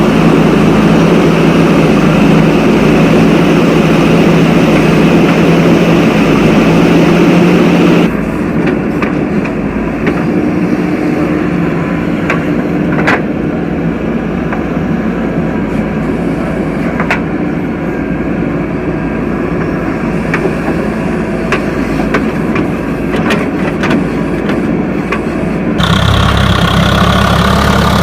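Heavy diesel machinery engine running, its sound changing abruptly about eight seconds in and again near the end, with scattered clanks in the middle stretch.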